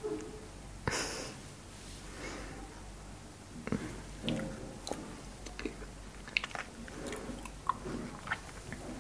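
Frozen cherries being bitten and chewed close to the microphone: a loud crunchy bite about a second in, then a run of small crunches and clicks of chewing.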